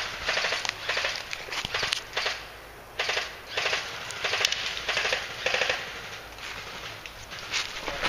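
Airsoft guns firing in several short rapid bursts of sharp clicks, with brief pauses between the bursts.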